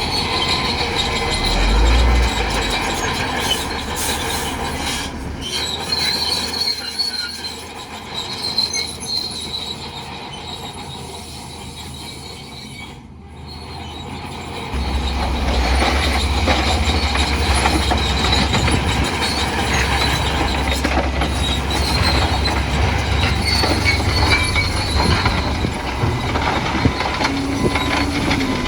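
Bulldozer working, its engine running with the steel tracks squealing and clanking. The sound drops for several seconds in the middle and comes back louder about halfway through.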